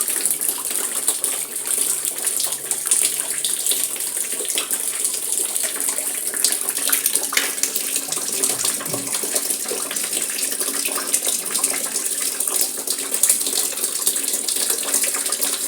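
Rainwater leaking through the roof pours steadily into a drum set beneath to catch it: a continuous splashing of water running into water.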